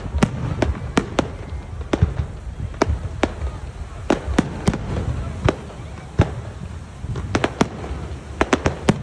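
Fireworks exploding: a rapid, irregular string of sharp bangs, often two or three a second and sometimes in quick clusters, over a continuous low rumble.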